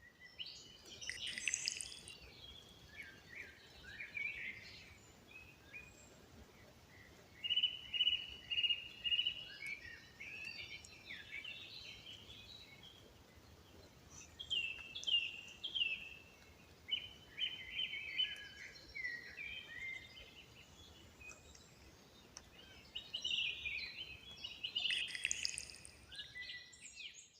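Wild songbirds singing in a spring forest: repeated trills and chirps, the loudest bursts coming about a second in, around a third of the way through, midway and near the end, over a faint steady hiss.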